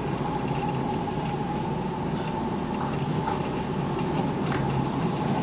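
HGV lorry's diesel engine running at low revs, heard from inside the cab, a steady rumble with a constant hum, as the truck is slowly manoeuvred round in a tight space.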